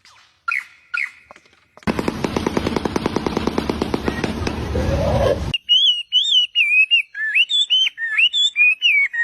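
Birdsong: two short chirps, then a loud, rapid rattling for about three and a half seconds, then a quick run of short whistled notes rising and falling in pitch.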